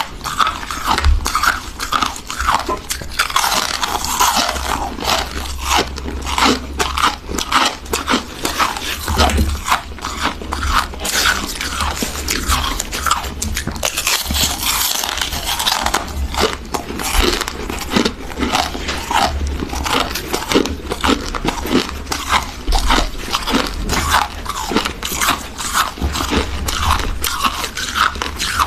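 Close-miked biting and chewing of freezer frost: continuous dense, crisp crunching of packed ice crystals.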